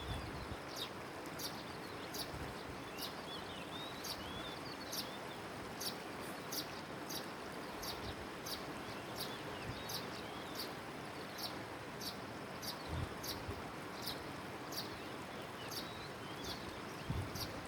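Birds calling outdoors: a short, very high note repeated about twice a second throughout, with twittering chirps in the first few seconds, over a steady background hiss.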